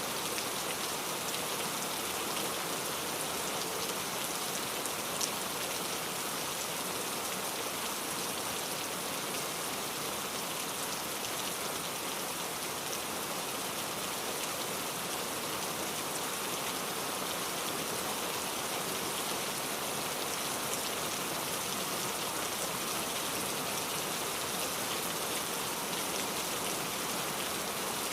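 Steady rain falling on surfaces, a dense, even patter of drops with one slightly louder drop about five seconds in.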